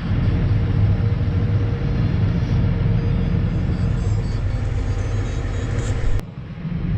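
A vehicle's diesel engine running steadily, a low rumble with a faint steady hum. It breaks off abruptly about six seconds in, where a similar engine rumble carries on.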